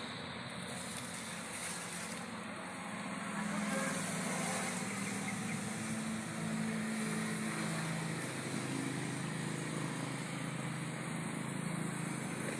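Steady vehicle engine noise: a low, slowly wavering hum under a broad rush of noise.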